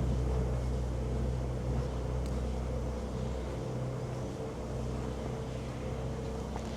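Steady low hum of an engine running nearby, its deepest rumble dropping away about halfway through.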